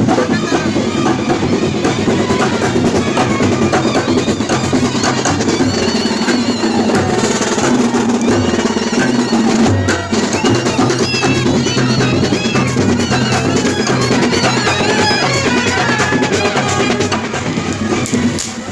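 Loud, continuous drum-led percussion music, dense drum strokes with wavering higher instrument notes above them.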